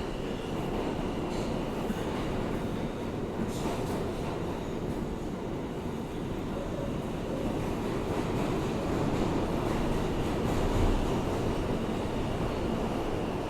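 Interior of an R160A-2 subway car running along the track: a steady rumble of wheels on rail with a few light clicks, swelling slightly a little past the middle. The car's air conditioning is broken, so no HVAC fan noise is running.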